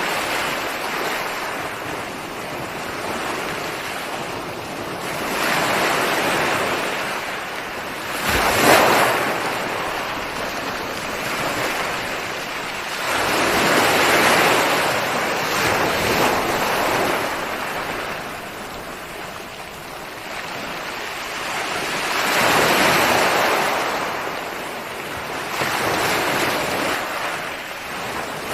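Ocean waves breaking and washing up the shore, surging in a swell every few seconds, with one sharper crash about nine seconds in.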